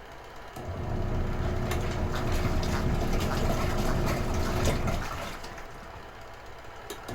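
Retro-style washing machine agitating a wash load: its motor runs with water churning for about four seconds, pauses for about two, and starts again near the end, the stop-start of the agitator's wash cycle.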